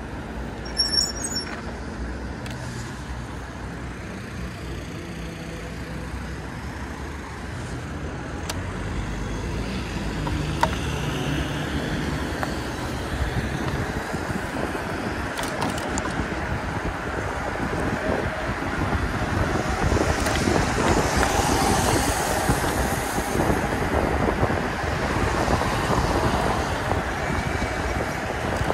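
Road and traffic noise from riding an e-bike on wet streets: a steady hiss of tyres and passing vehicles that grows louder over the second half, with a short high squeal about a second in.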